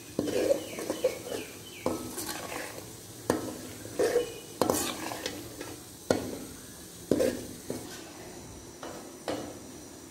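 A metal spoon scrapes and knocks against a karahi while stirring semolina roasting in ghee, about one stroke a second, with a faint sizzle.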